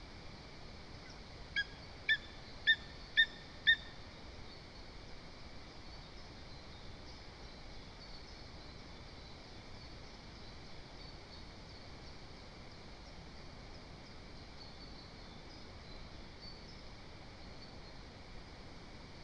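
Lesser Spotted Eagle calling: a series of five short, high yelps about half a second apart, over faint distant songbird chirps and steady outdoor hiss.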